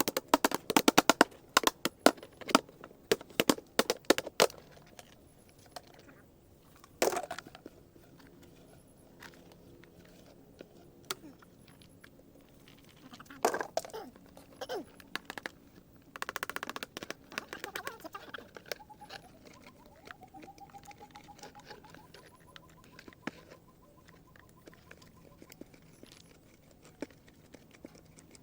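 Dry seed gourds being beaten open and their shells and seeds handled: a quick run of crackling knocks at the start, then a few single knocks several seconds apart.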